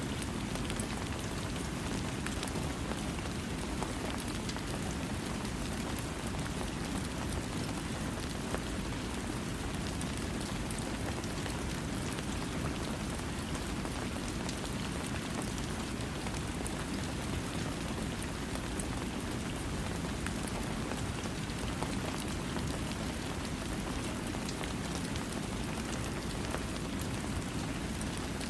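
Steady rain falling, an even hiss with a full low rumble and fine scattered drop ticks, without thunder.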